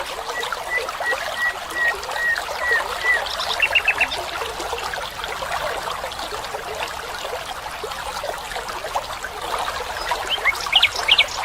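Water trickling steadily, like a small stream, with a bird calling: a run of short, evenly spaced notes in the first three seconds, a quick burst of notes about four seconds in, and a few sharp chirps near the end.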